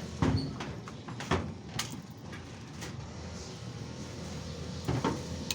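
A scattered series of knocks and clatters from handled objects, irregularly spaced, the loudest about a quarter second in, around a second and a half in, and again near the end, over a steady low background.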